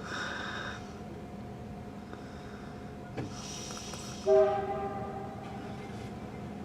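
Diesel locomotive air horn sounding one chord blast about four seconds in, loud at the onset and fading within a second or two, over a faint steady train rumble.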